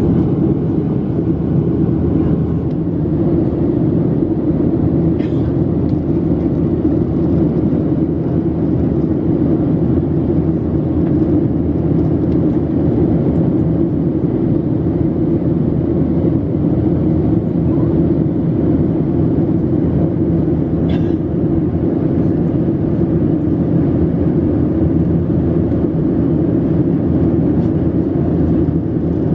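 Steady cabin noise inside an airborne Boeing 737-700: an even, low rumble of its CFM56-7B jet engines and rushing air, with no change in pitch.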